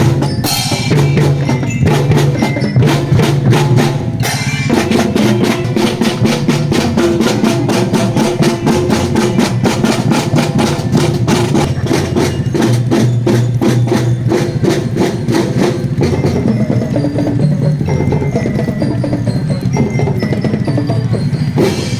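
Marching drum band playing: rapid, even strokes on snare and bass drums under a melody on a glockenspiel-type bell lyra.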